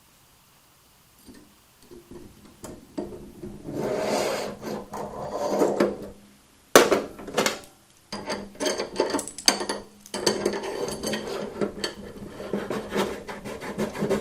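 Metal go-kart parts being handled and fitted by hand: scraping and rubbing, a single sharp clank about seven seconds in, then a steady run of quick clicks and scrapes.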